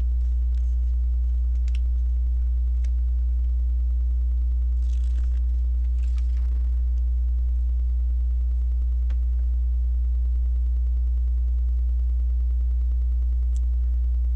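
Steady low electrical mains hum with a ladder of overtones, the loudest sound throughout. Over it come a few faint sharp clicks and two soft rustles, about five and six seconds in, from small Lego parts being handled.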